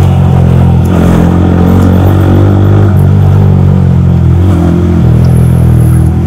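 Yamaha R15 V3's single-cylinder four-stroke engine running under way at a fairly steady speed, its pitch holding nearly even with small rises and dips.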